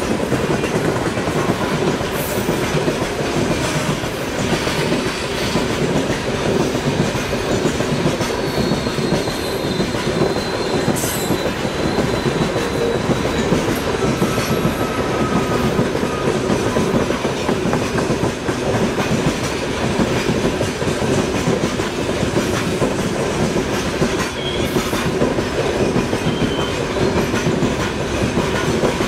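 Freight train of gondola wagons rolling past at speed, the wheels clattering steadily over the rails, with a faint thin wheel squeal about ten seconds in.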